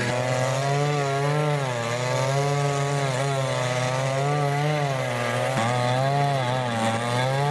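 Chainsaw running under load while cutting through wood, its engine pitch wavering up and down as the chain bites.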